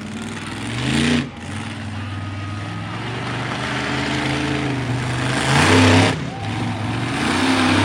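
Monster truck engine revving hard twice, once about a second in and louder near six seconds, each rev rising in pitch and cutting off sharply, with a rumbling run between.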